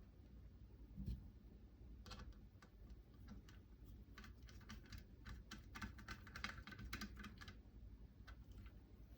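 Faint, quick light clicking of small metal parts and a hand driver as screws and nut plates are fitted into a rifle receiver, with a soft thump about a second in and the clicks thickest near the middle.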